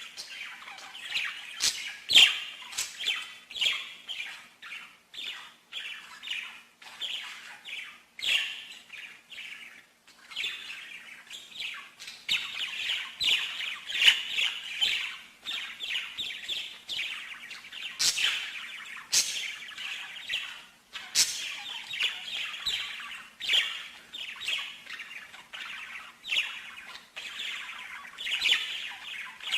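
A songbird singing continuously: fast runs of chirps, trills and sharp clicks with few breaks, over a faint steady hum.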